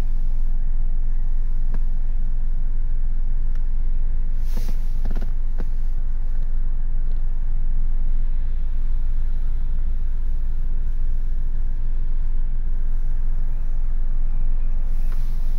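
Steady low rumble inside the cabin of a 2019 Ford Focus, its 1.0-litre three-cylinder EcoBoost petrol engine idling. A few light knocks come through it, the loudest about four and a half seconds in.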